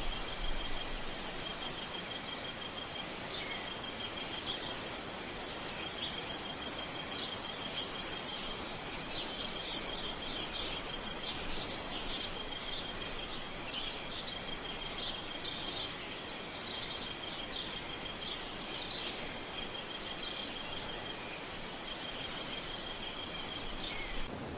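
Tropical forest insects chorusing: a steady, fast-pulsing high trill with a few short chirps scattered through it. A louder, dense high buzz swells in about four seconds in and cuts off suddenly a little past the middle.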